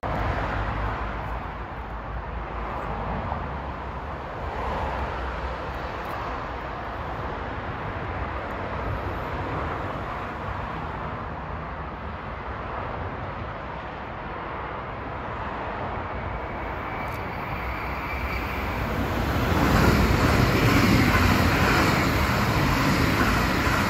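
A train running past on the tracks: a steady rumble and rolling noise that grows louder near the end.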